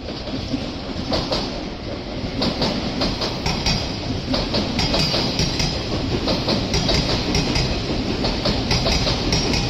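Odakyu Line electric commuter train passing, wheels clicking over rail joints in a rapid, uneven clatter over a steady running rumble, growing louder a couple of seconds in.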